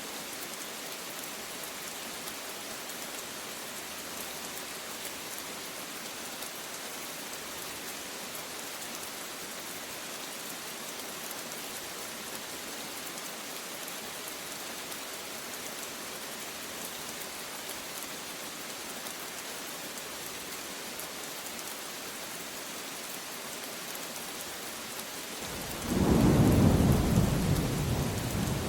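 Steady rain falling in an even hiss. Near the end a sudden loud clap of thunder breaks in and rolls on as a deep rumble.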